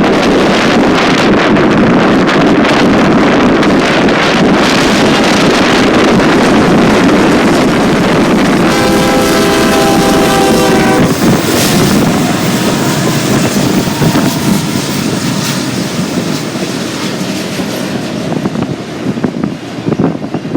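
A freight train's diesel locomotive sounding its air horn in one long blast of about two and a half seconds, about nine seconds in, over the steady noise of the passing train. Strong wind buffets the microphone throughout.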